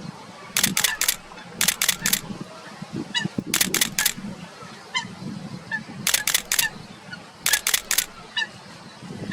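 Camera shutter firing in quick bursts of three clicks, five bursts in all. Short, nasal bird calls sound faintly between the bursts, three times.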